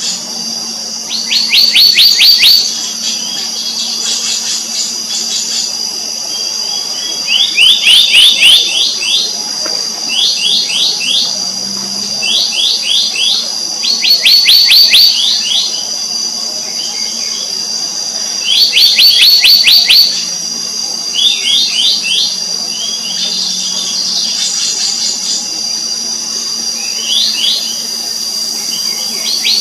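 Black-naped monarch calling in bursts of rapid, high notes, each burst about a second long and repeated every few seconds, over a steady high-pitched hum.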